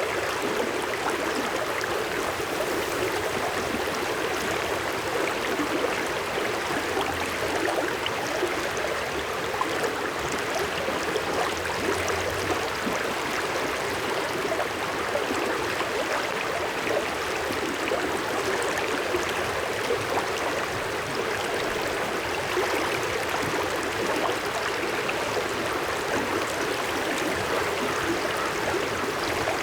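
River water flowing and splashing steadily over rocks, a continuous rushing babble without pause.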